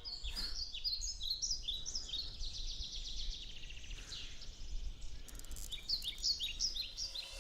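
Songbirds chirping and trilling in quick repeated phrases over a low, steady background rumble.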